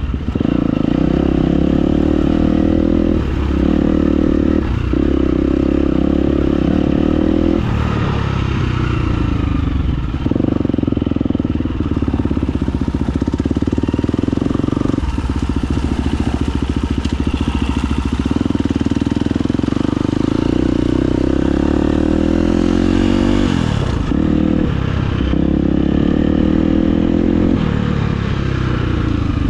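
Dirt bike engine revving hard under load, the revs dropping off and picking back up every few seconds as it works over rough rocky ground.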